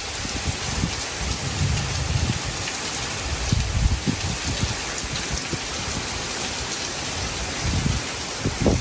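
Heavy rain falling steadily, a dense even hiss, with irregular low rumbling swells underneath.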